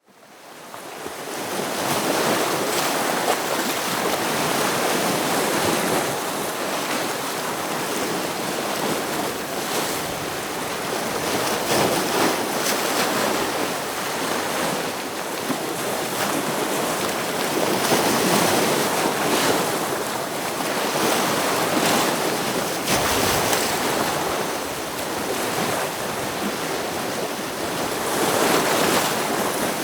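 Ocean waves breaking against rocks: a continuous rush of surf that swells and ebbs every few seconds. It fades in over the first second or two.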